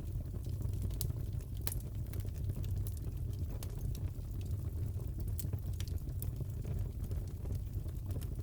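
Wood fire crackling in a fireplace: a steady low rumble with irregular sharp pops and snaps scattered through it.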